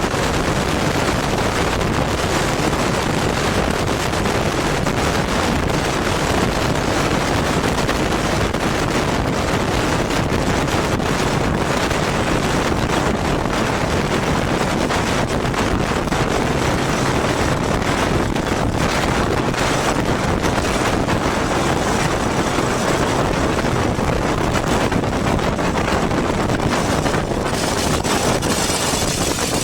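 Steady wind rush over the microphone mixed with a Yamaha motorcycle's engine while riding. The noise eases a little near the end.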